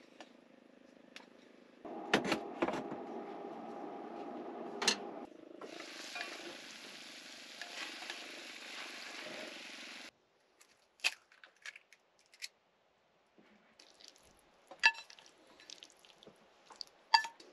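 Sliced pork, onion and green peppers sizzling in a steel pan on a portable gas stove while being stirred with chopsticks. The sizzle stops abruptly, followed by scattered sharp clinks of utensils against the pan and bowl.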